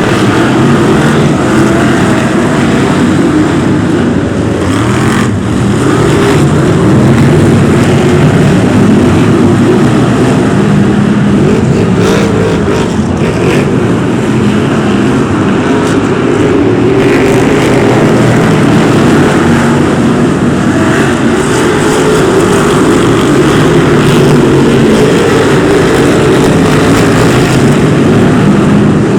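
A pack of BriSCA F1 stock cars racing, their big V8 engines running loud and continuous, several engine notes rising and falling over one another as the cars lap.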